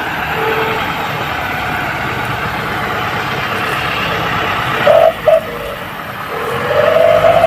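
Truck and traffic noise on a muddy road, a steady rumble. About five seconds in come two short loud high tones, and from about six seconds a longer held tone that rises slightly and grows louder.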